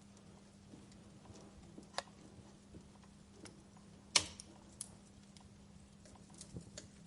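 Campfire crackling: scattered small pops and ticks of burning wood, with a sharper pop about two seconds in and one much louder pop a little past halfway.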